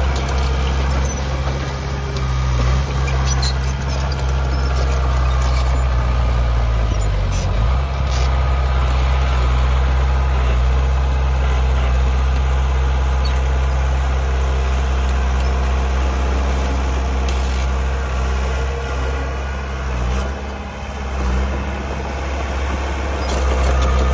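Heavy diesel engine of earthmoving machinery running steadily under load. Its pitch dips briefly and recovers about a third of the way in.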